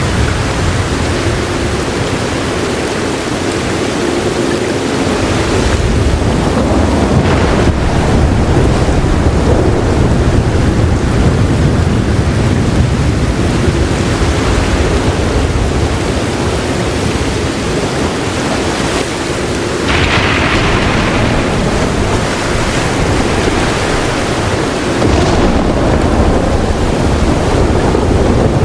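Heavy rain hissing steadily with low thunder rumbling underneath, the rumble swelling and easing several times.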